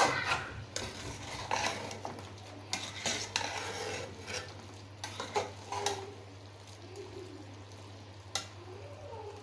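Spoon stirring and knocking against a cooking pot of frying chicken and spices, irregular clinks and knocks that thin out after about six seconds, with one sharp knock near the end.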